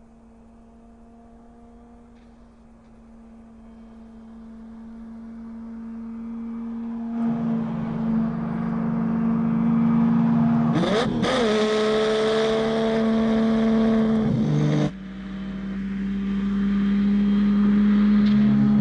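Lamborghini Miura's V12 engine running at speed, a steady note that grows from faint to loud as the car approaches. Its pitch swoops briefly midway, and the sound drops off suddenly near the end before building again.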